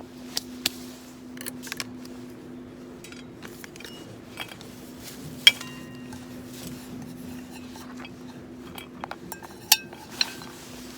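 Metal camp cookware and utensils clinking and knocking in a series of scattered clinks; a loud one about halfway rings briefly and another sharp one comes near the end. A steady low hum runs underneath.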